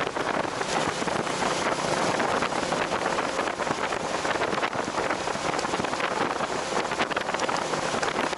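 Steady wind rush buffeting the microphone of a motorcycle moving at speed, a constant hiss with no clear engine note.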